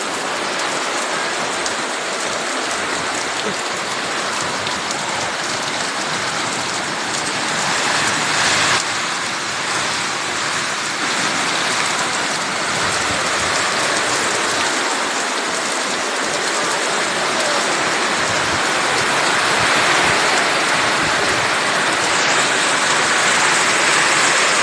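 Heavy rain falling steadily, a loud even hiss of downpour.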